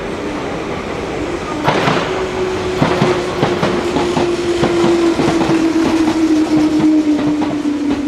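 Meitetsu electric train running through the station, its wheels clacking over rail joints. From about two seconds in, a steady whine slowly falls in pitch.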